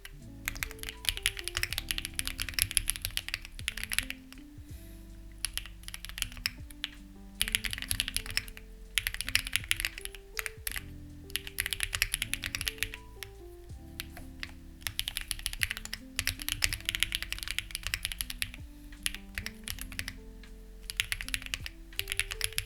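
Typing on a Lucky65 v2 mechanical keyboard with stock, unlubricated HMX Ziwei switches and clone CMK keycaps: fast runs of key clicks in bursts with brief pauses. Soft background music plays underneath.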